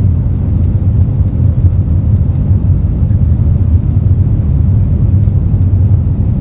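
Steady low rumble of engine and airflow noise inside an Airbus A320neo's cabin.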